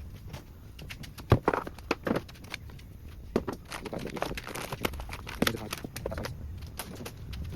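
Metal hand tools clinking and clattering as they are picked up and set down while a toolbox drawer is sorted: a run of irregular sharp knocks, the loudest about a second in.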